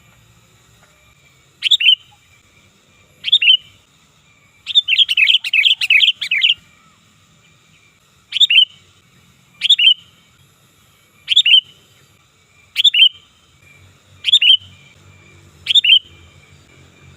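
Sooty-headed bulbul (kutilang) calling loudly: short bursts of a few falling notes repeated about every one and a half seconds, with a rapid chattering run of notes about five seconds in.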